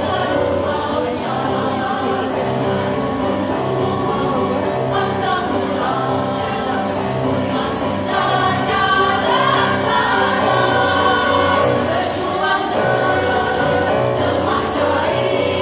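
A choir of teachers singing in harmony, with many voices holding and moving between sustained notes.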